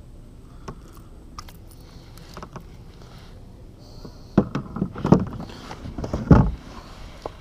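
Knocks and thumps on a fishing kayak: scattered light clicks and taps, then a burst of heavy thumps about four and a half to six and a half seconds in, the loudest near the end.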